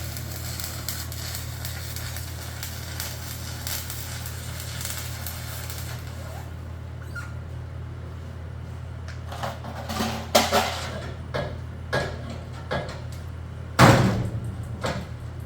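Sheet steel being worked in a metal shop: a steady low hum with a crackling hiss for the first six seconds, then a run of sharp metal clanks and hammer strikes. The loudest strike comes near the end.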